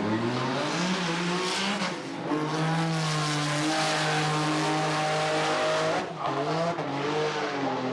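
Drag-racing car engine running hard at high revs, its note climbing at first, then dipping sharply about two seconds in and again about six seconds in before picking up, as at gear changes.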